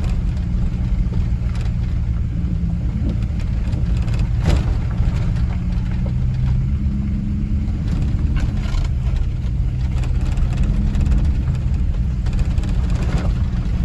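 Steady low engine and road rumble heard from inside a moving vehicle, with a sharp knock about four and a half seconds in and a fainter one near the end.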